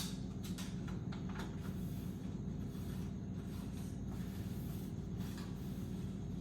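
A steady low hum with faint scattered clicks and hiss over it.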